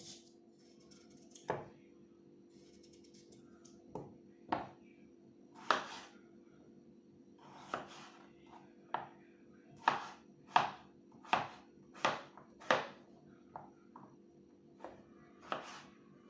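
A knife chopping on a cutting board in irregular strokes, about fifteen in all and closest together in the middle stretch, over a faint steady hum.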